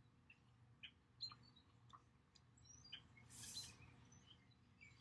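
Faint, scattered short bird chirps, with one brief soft swish about three and a half seconds in as tarot cards are slid across the table.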